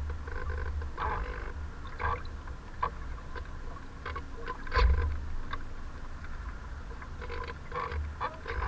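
Strong wind buffeting the microphone in low rumbling gusts, the biggest gust about five seconds in, with choppy waves slapping and splashing at irregular moments.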